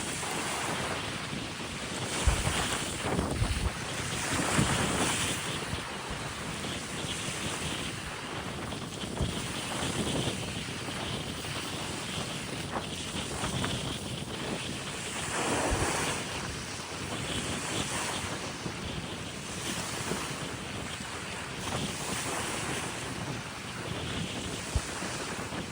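Strong wind buffeting the microphone with occasional low thuds, over sea waves washing against the shore, rising and easing every couple of seconds.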